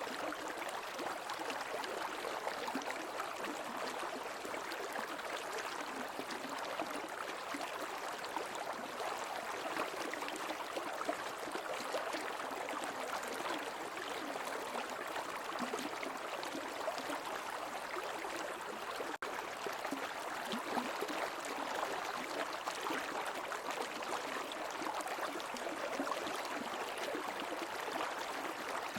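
Stream water flowing and babbling steadily over rocks, with a constant rushing, gurgling texture. A split-second dropout cuts the sound about two-thirds of the way through.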